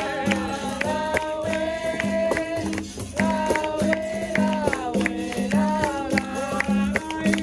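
Capoeira roda music: singing over the twanging tones of berimbaus and the jingles and strikes of a pandeiro, in a steady repeating rhythm.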